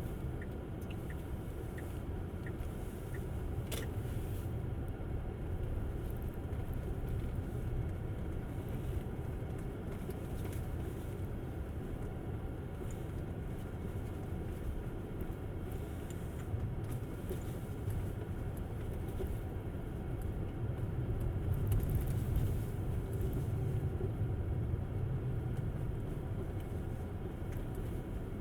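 Tesla Model S driving, a steady low rumble of tyres and road noise. Faint ticking about twice a second stops about three seconds in, and a single sharp click follows.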